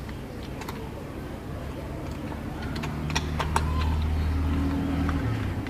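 A motor vehicle's engine hum swells for a few seconds in the second half, over sharp metallic clicks of tools on engine parts.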